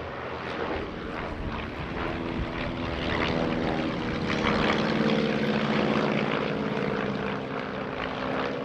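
Light piston-engine propeller aircraft flying a display pass. The engine note grows louder toward the middle and then eases off slightly.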